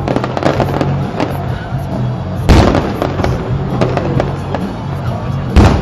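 Fireworks going off: a run of crackling pops, with two loud shell bursts, one about two and a half seconds in and one near the end.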